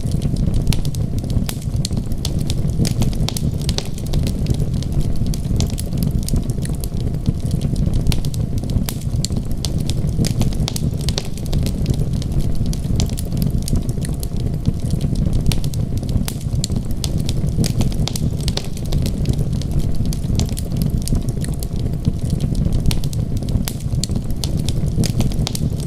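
Wood fire crackling, with many small sharp pops and snaps, over a steady low rumble.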